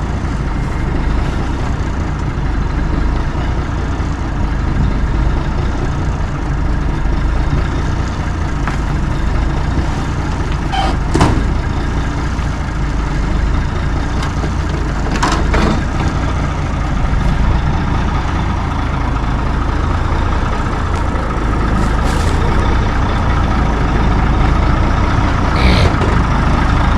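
Heavy truck engine idling steadily, with a few short sharp clicks or hisses scattered through.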